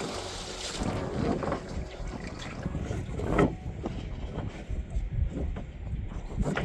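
Wind rumbling on the microphone aboard a small boat, with water sounds around the hull and a few short knocks, the sharpest about three and a half seconds in.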